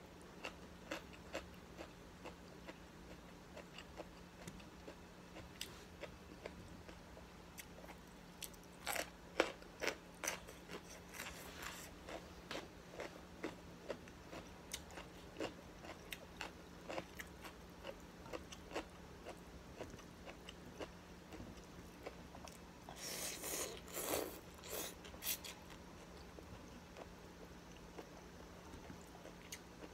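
Close-up mouth sounds of a person eating: chewing and crunching on food, with many short crisp clicks and two louder clusters of crunching, about nine seconds in and again about twenty-three seconds in. A faint low steady hum runs underneath.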